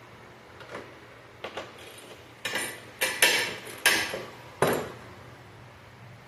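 Metal tools and car parts clanking and clattering as they are handled, about six knocks, the loudest ones in the middle.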